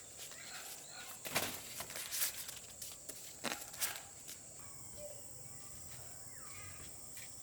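Scattered crunching and rustling in the first half, like steps and handling of dry plant material, then quieter with a single short bird chirp a little after six seconds.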